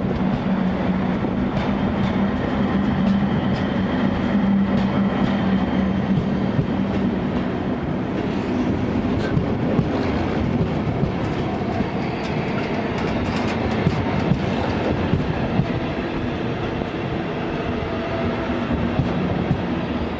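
A train rolling along the track, its wheels clicking over rail joints, with a steady low hum that fades after the first several seconds and returns near the end.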